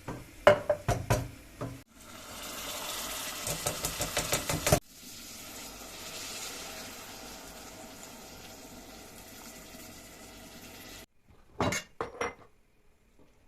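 Dishes clinking at the start, then water running steadily for several seconds, then a few more clinks of dishes before it stops.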